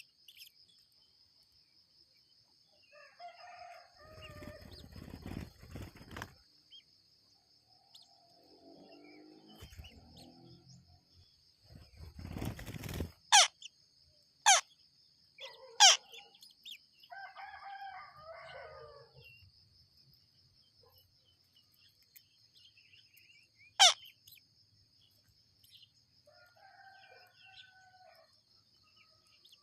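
Birds calling: several loud, very quick downward-sweeping calls, with longer, lower calls in between. A steady high-pitched whine runs underneath.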